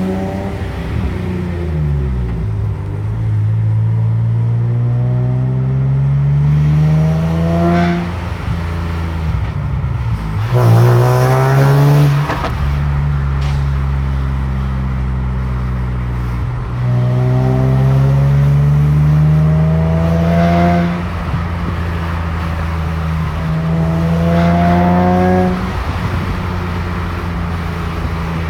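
Nissan 370Z's 3.7-litre V6 revved up and let fall back to idle about four times, the hardest rev about ten seconds in. The owner is hunting a screeching noise that appears only between 3,500 and 4,000 rpm, with or without the AC on and with no check-engine light.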